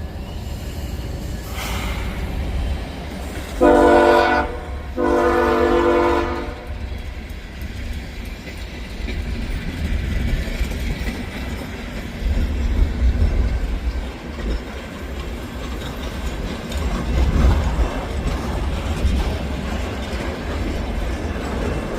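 Diesel locomotive horn on a CSX train sounding two blasts about four seconds in. The moving train's low rumble runs underneath and swells a couple of times.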